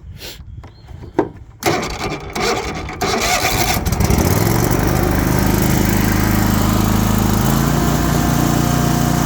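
Kohler Command engine of a Toro Titan ZX4800 zero-turn mower being started: a click about a second in, the starter cranking it for a second or two, then the engine catching about three seconds in and settling into a steady run.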